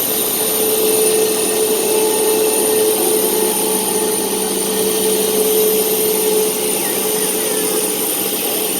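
Jet airliner engines running steadily: an even rushing noise with a constant whine over it.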